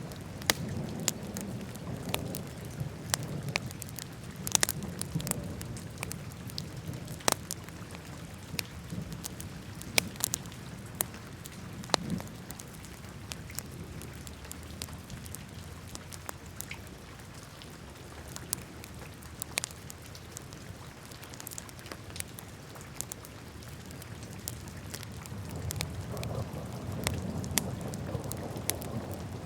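Wood fire burning in a fireplace, with frequent irregular crackles and sharp pops over a low, steady rumble of flames. The rumble swells near the start and again near the end.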